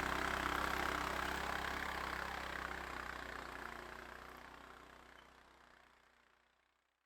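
ATV engine running steadily with a low, even tone, fading out to silence over several seconds.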